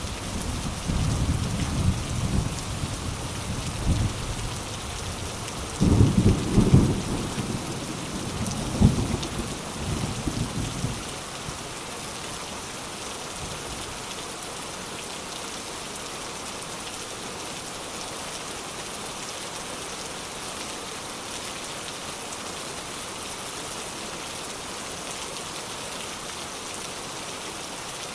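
Steady rain hiss with a long rolling rumble of thunder through roughly the first ten seconds, loudest about six seconds in, dying away by about eleven seconds; after that only the rain.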